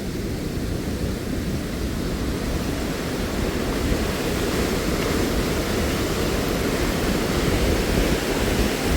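Steady deep rush of white water pouring through the Huka Falls chasm, growing a little louder about four seconds in.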